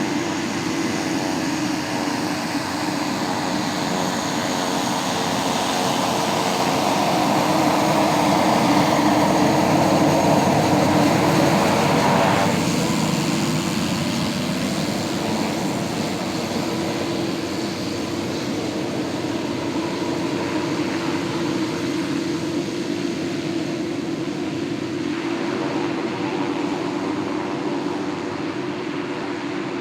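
Light propeller aircraft's piston engine running steadily with a propeller hum. It grows louder to a peak about ten seconds in, drops back sharply about twelve seconds in, and carries on at a lower level.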